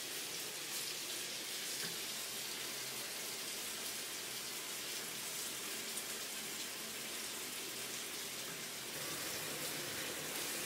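Steady crackling sizzle of chicken and vegetables frying in oil in a clay tajine over a gas flame.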